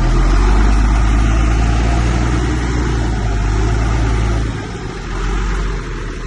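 Heavy diesel engine of earthmoving machinery running steadily under load, a deep drone that drops in level about four and a half seconds in.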